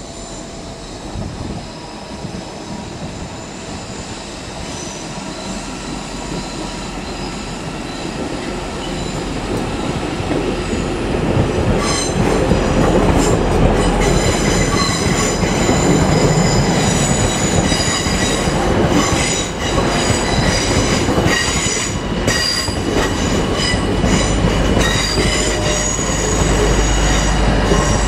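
Northern Class 331 electric multiple unit passing close, its rumble growing louder over the first dozen seconds. From about halfway the wheels squeal with high ringing tones and click over rail joints.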